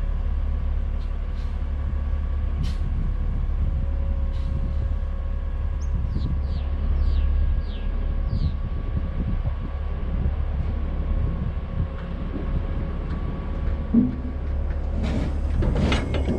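A heavy diesel truck engine running with a steady low rumble, with a few short falling squeaks in the middle and a louder burst of noise near the end.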